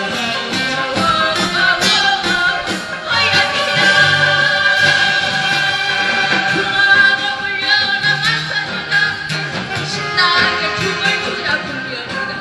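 A woman singing a Korean trot song over instrumental accompaniment, holding long notes with a wavering vibrato.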